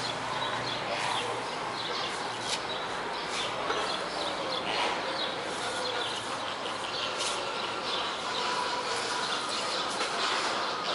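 Outdoor ambience with small birds chirping now and then over a steady background hiss.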